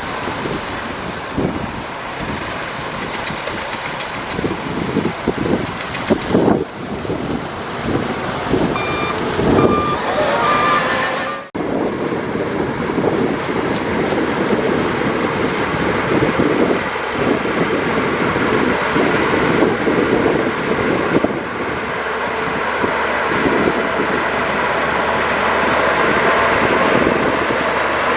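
Heavy diesel earthmoving machinery (a dump truck and a bulldozer) running under load. About nine seconds in, a reversing alarm gives a few short beeps. A couple of seconds later the sound breaks off for an instant, then the engines carry on steadily.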